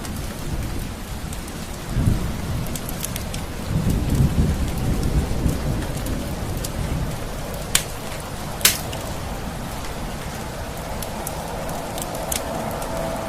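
Steady rain with low rolls of thunder about two seconds in and again around four to six seconds. Two sharp pops come close together just before the middle.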